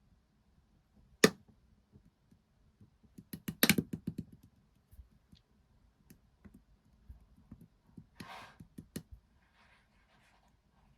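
Clear aloe slime being handled: scattered sharp clicks and small pops, the loudest a single click about a second in and a quick cluster of clicks a few seconds later, with a brief squish about eight seconds in.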